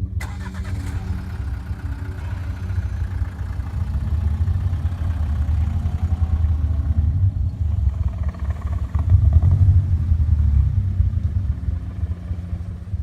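A car engine running with a low, pulsing note, growing louder about four seconds in and again around nine to ten seconds in.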